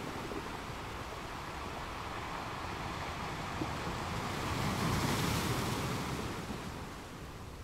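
Rushing sea water with wind noise on the microphone, swelling louder for a couple of seconds past the middle, then easing.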